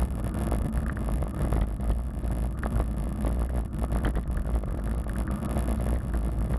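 Wind rumbling on the microphone of a camera riding along on a moving bicycle, with frequent small knocks and rattles from the bike over the path surface.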